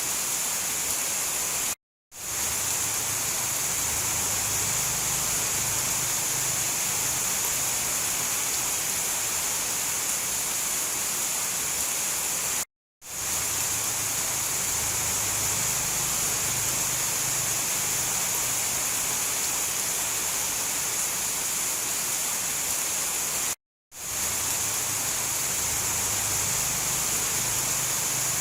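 Steady heavy rain, an even hiss with a low rumble underneath. It drops out to silence for a moment three times, about eleven seconds apart, as the recording loops.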